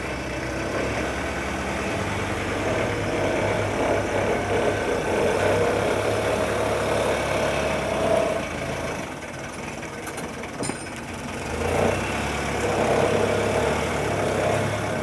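Helicopter running on the ground, a steady engine-and-rotor drone that eases off for a couple of seconds a little past the middle.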